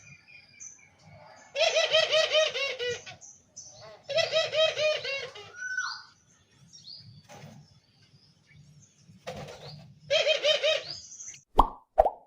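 Caged doves cooing in three bursts of rapid, evenly repeated notes, several a second, with a couple of sharp knocks near the end.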